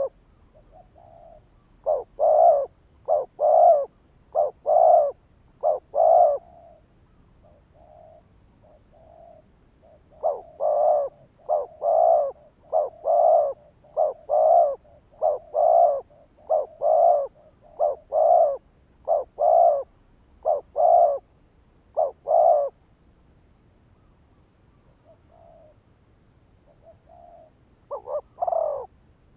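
Spotted dove cooing: runs of short, evenly spaced coos, with a long run in the middle, separated by pauses with a few soft, quieter coos. It is a decoy dove's call, used to provoke other doves into calling.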